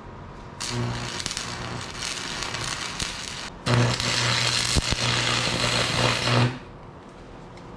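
Lincoln AC180S AC transformer stick welder running an arc twice, with a brief break between. Each run is a crackling hiss over the welder's steady buzz, and the second run is louder. The welder is being tested on each setting of its amperage dial.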